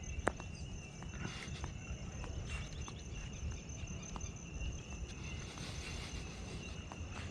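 Insects chirring steadily in one high, unbroken pitch, over the low rumble of walking with a hand-held camera and a few soft clicks.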